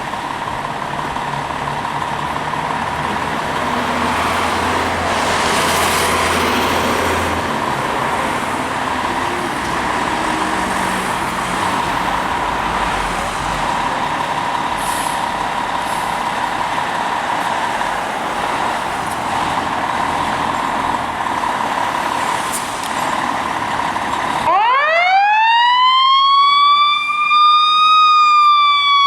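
Fire department ladder truck responding: steady road and engine noise with a thin steady high tone. About 24 seconds in, its siren sweeps sharply up in pitch, peaks, and starts to fall slowly.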